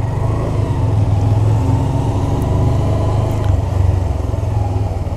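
2017 Honda Grom's 125 cc single-cylinder engine running steadily as the bike rolls at low speed.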